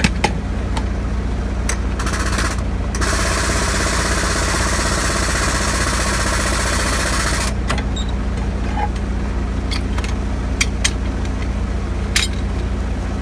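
Diesel engine idling steadily, with a loud hiss of air lasting about five seconds starting two seconds in, and a few sharp metallic clicks.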